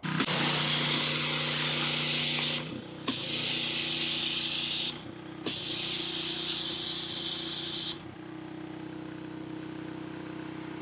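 Ryobi RY802925 gas pressure washer running, its small engine droning steadily while the spray gun blasts water in three bursts of two to three seconds, with short breaks between them. About eight seconds in the spray stops and the engine keeps running on its own, quieter.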